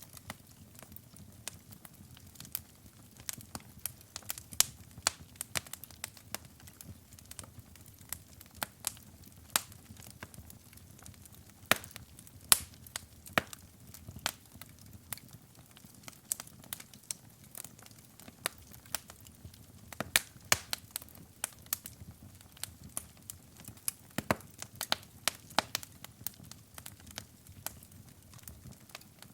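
Wood fire burning in a fireplace, crackling and popping irregularly over a low steady rumble of flame; the louder pops cluster around the middle and again about two-thirds through.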